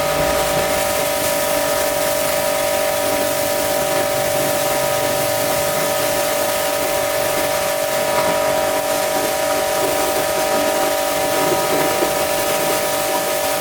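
Pressure washer running with a steady, high whine from its motor and pump, and the hiss of its water jet spraying.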